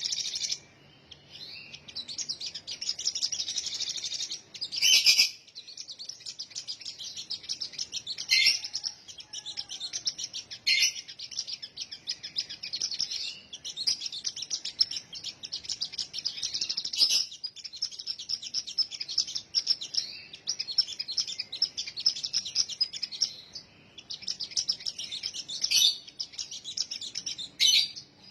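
A sogon songbird singing long runs of rapid, high chattering notes, broken by a few short pauses and punctuated by several louder, sharp notes.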